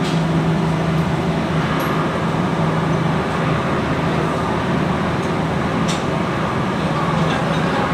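Steady running machinery: a constant low hum with a haze of mechanical noise, and a couple of faint sharp clicks.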